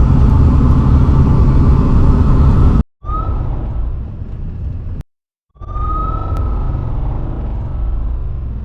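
Road and engine noise from inside a moving vehicle: a steady low rumble, cut off abruptly by two short silent gaps about three and five seconds in. A brief rising high whine sounds just after each gap.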